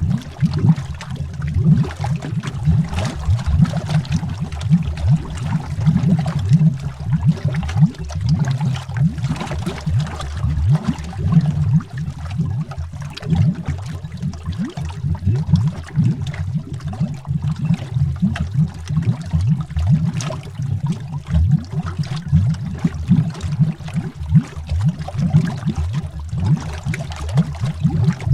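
Underwater bubbling: a dense, continuous stream of bubbles rising, heard as deep, irregular pops and gurgles with a fainter hiss above.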